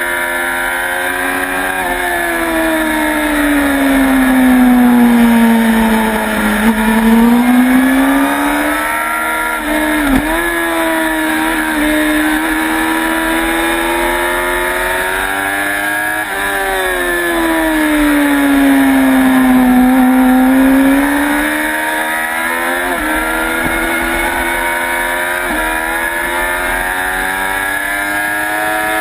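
Sport motorcycle engine lapping a racetrack at speed, over a steady rush of wind noise. The revs fall twice to a low note and climb again, with brief sharp breaks in the note at the gear changes.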